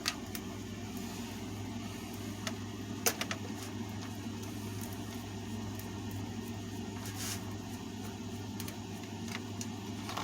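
Steady low mechanical hum, with a few light clicks of table-fan parts being handled during disassembly, near the start, about three seconds in and about seven seconds in.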